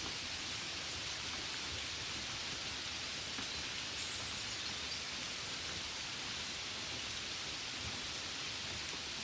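Gentle, steady rain falling, a soft even hiss with light patter of drops.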